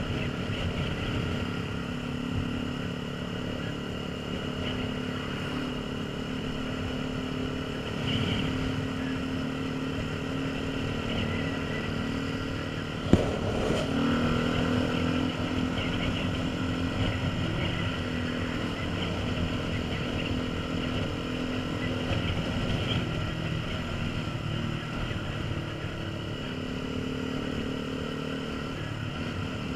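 Honda CBF125's single-cylinder four-stroke engine running steadily under way, with wind rushing over the microphone. About thirteen seconds in there is one sharp knock, and the engine note shifts in pitch just after it.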